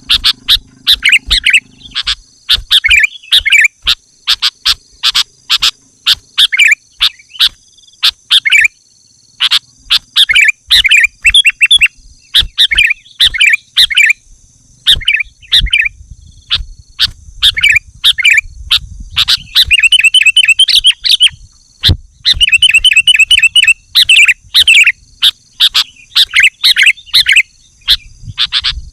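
Sooty-headed bulbul singing continuously: loud, rapid bursts of short chirping phrases, with two quicker runs of fast repeated notes about two-thirds of the way in.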